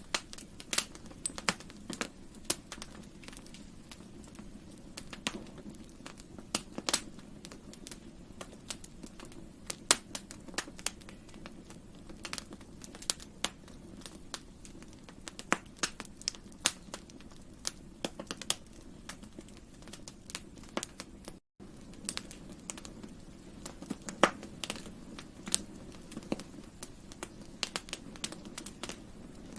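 Campfire burning: wood crackling and popping in irregular sharp snaps over a steady low background of the fire. The sound drops out for a moment about two-thirds of the way through.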